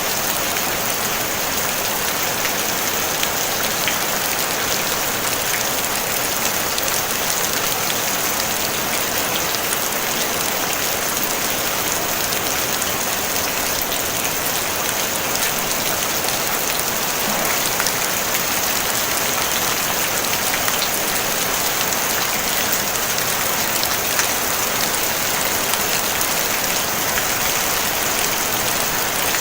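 Steady rain falling on a tin roof: an even, unbroken hiss, mostly high-pitched, with a fine patter of drops and no thunder.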